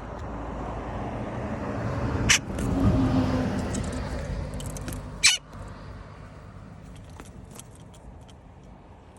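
A motor vehicle passing close by: its noise builds to a peak about two to three seconds in, drops slightly in pitch, and fades away. Two sharp, loud noises break in, one at the peak and one about three seconds later.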